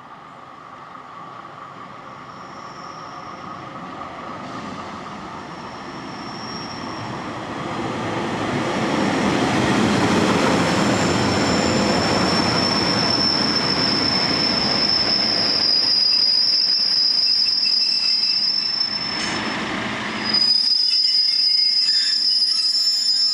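Northern Rail Class 144 Pacer diesel multiple unit approaching and passing, its running noise growing to a loud peak about ten seconds in. A steady high-pitched metallic wheel squeal then sets in and grows stronger as the unit slows into the station.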